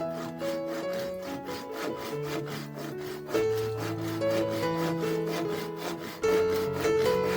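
Hand saw cutting wood in quick, even strokes, over background music with held notes.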